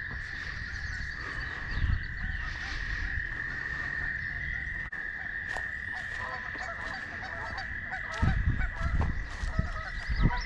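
Woodland ambience: a steady, high-pitched chorus of insects or frogs, with short bird calls over it. Low rumbles come in near the end.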